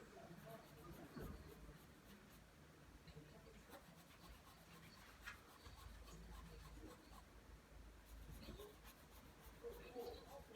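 Pencil drawing lines on paper: faint, soft scratching of the graphite strokes.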